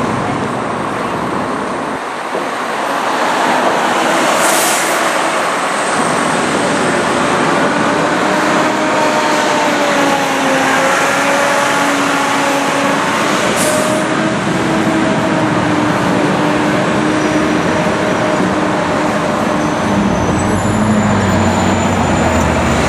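Fire trucks and heavy city traffic: a steady engine drone with a slowly wavering pitch, and two short air-brake hisses, one about four seconds in and one about fourteen seconds in.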